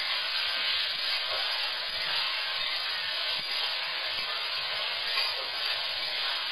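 Chopped vegetables and cashews sizzling in hot oil in a metal kadai, a steady hiss, while a spatula stirs and scrapes them around the pan with faint small clicks.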